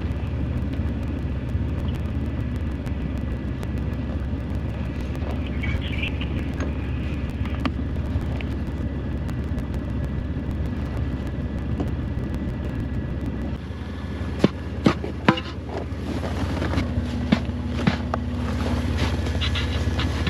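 Vehicle engine idling steadily. From about fourteen seconds in come several sharp clanks and knocks, as recovery rigging is unhooked and handled.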